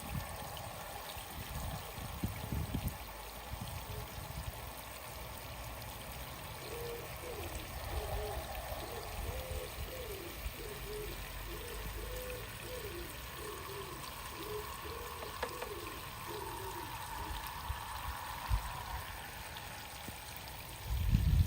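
Water pouring and trickling in a steady stream, washing toy vehicles, with a few soft low knocks.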